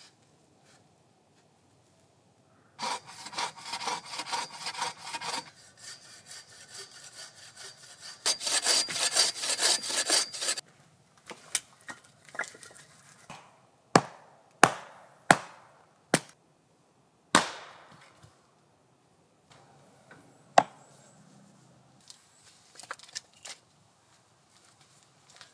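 Saw cutting through hazel wood in quick rasping strokes, in two runs, followed by a string of single sharp cracks and knocks of wood.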